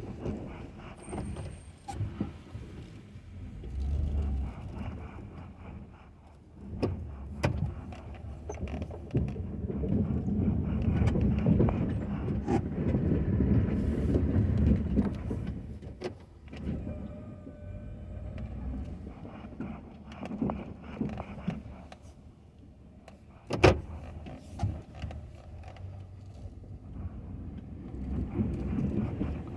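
Ford F-250 plow truck running and moving, its low engine and drive rumble rising and falling, loudest through the middle, with scattered knocks and clunks. A single sharp bang comes about three-quarters of the way through.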